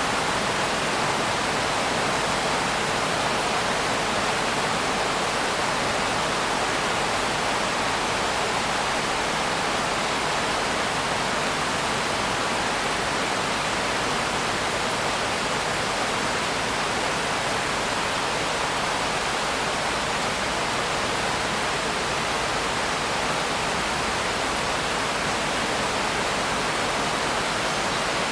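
Steady, dense rain: an even hiss with no single drops, thunder or changes in level.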